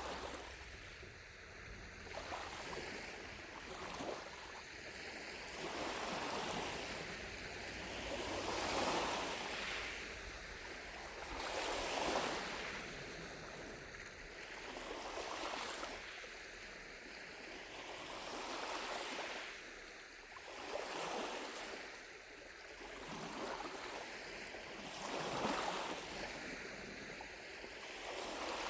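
Gentle lake waves lapping on the shore, each wash swelling and fading every few seconds, with a few louder ones now and then.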